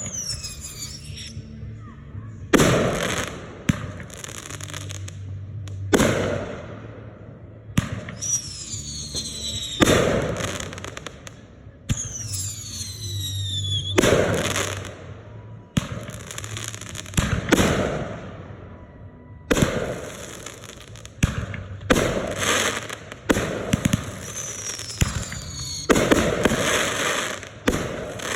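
Red Apple consumer firework mortar shells launching and bursting in quick succession, a loud bang about every one to two seconds, each followed by crackling, with several falling whistles.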